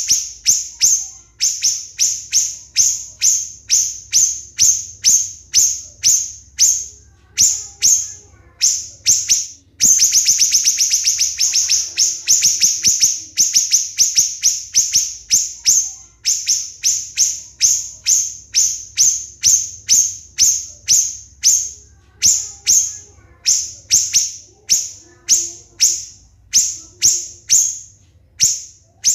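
Siri-siri bird calling: a long series of sharp, shrill, high notes at about two a second, with a faster, packed run of notes about ten seconds in lasting a few seconds. These are the close-set "tembakan" (shot) notes prized as masteran for training songbirds.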